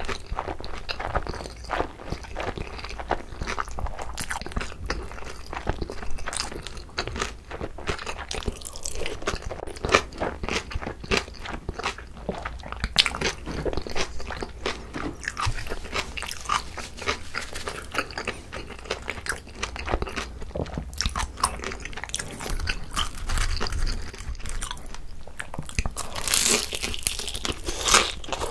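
Close-miked chewing with steady crunching and wet mouth clicks as crispy pan-fried dumplings and noodles are eaten. Near the end a louder crunch as the thin fried skin of a pollack-roe dumpling is bitten into.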